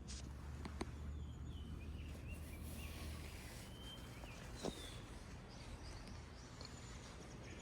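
Faint outdoor ambience with a few short bird chirps and a couple of sharp clicks.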